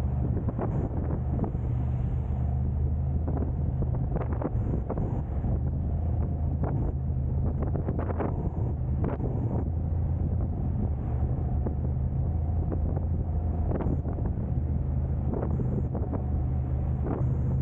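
A car driving, with a steady low rumble of engine and road noise and wind buffeting the microphone. Scattered light clicks and knocks are heard throughout.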